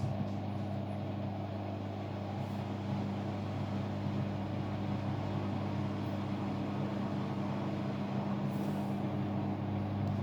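Hoover Sudslock washing machine running with a steady motor hum and an even whir above it.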